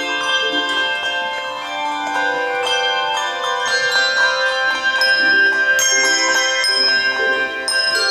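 Handbell choir ringing a piece: chords of bells struck together, their tones ringing on and overlapping.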